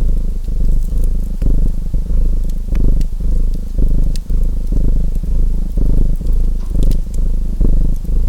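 Domestic cat purring close up, a steady low purr that swells and fades in even cycles under a second long. Faint pops of a crackling wood fire sound here and there above it.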